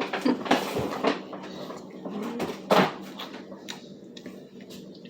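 Household handling noises: a run of short knocks and clatters, with one louder rustling bump a little under three seconds in, then a few faint ticks.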